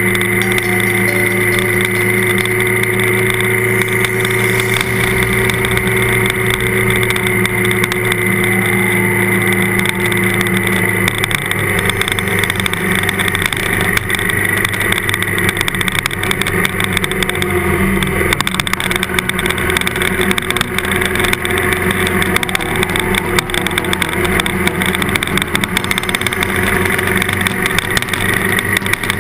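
Trail motorcycle's engine running steadily as it rides along a dirt track, heard from a camera mounted on the bike. The engine note changes at about 11 seconds and again around 18 seconds.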